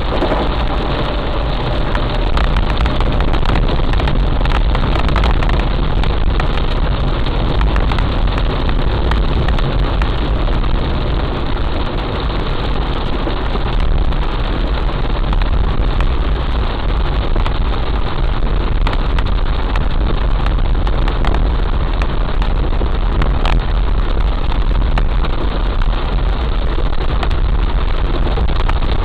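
Heavy rain pouring down: a loud, steady hiss dense with the ticks of drops striking, over a constant low rumble.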